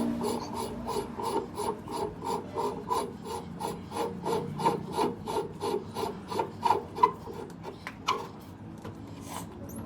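A hand tool worked back and forth on a metal part in even strokes, about three a second, stopping about eight seconds in.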